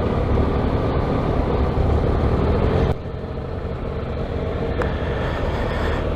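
Motorcycle engine running steadily, picked up by a helmet-mounted camera's microphone; the sound drops abruptly in level a little under three seconds in.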